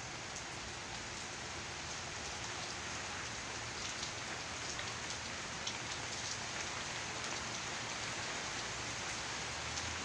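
Steady rain falling on the surroundings, a dense hiss with scattered drop ticks, growing slightly louder as the shower picks up again.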